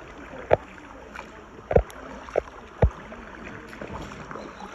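Kayak paddling on calm water: a handful of short knocks and splashes from the paddles against the water and the hull, over a steady wash of water and wind.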